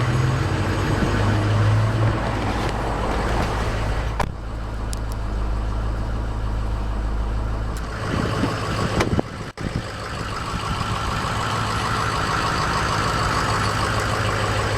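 Ford 6.0-litre Powerstroke turbo-diesel V8 idling steadily, with a brief dropout in the sound about nine and a half seconds in.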